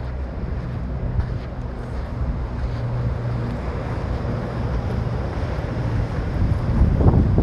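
Strong wind buffeting the microphone over the wash of rough sea, with the steady low hum of a boat engine running in the inlet. The noise swells louder near the end.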